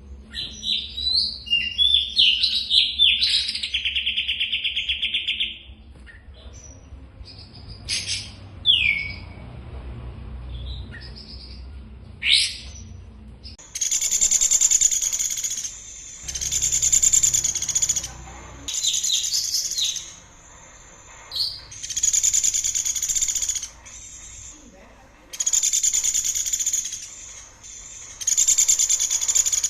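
Songbirds singing. In the first few seconds there is a run of varied chirps and a steady trill, then scattered short calls. From about halfway, fast high trills of a second or two each repeat every two to three seconds.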